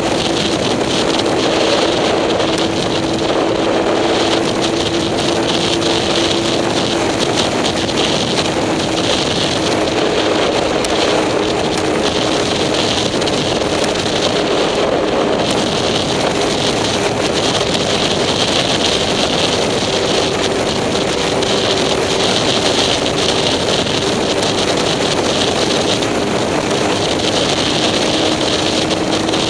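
Vehicle engine running steadily at speed, its drone shifting slightly in pitch now and then, with wind rushing over the microphone.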